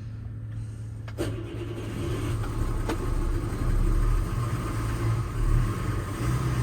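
Sailboat's inboard diesel engine running, with a sharp click about a second in, after which the engine grows louder. The engine is smoking and running on fuel contaminated with water, and it keeps stalling.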